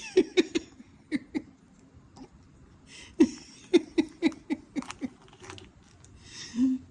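Woman laughing in short bursts of quick, falling "ha" syllables, about four a second at the most, with breathy intakes between the bursts.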